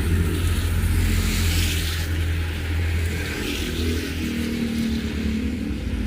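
Heavy rain hissing over a steady low rumble, the hiss swelling briefly twice, about a second and a half and three and a half seconds in.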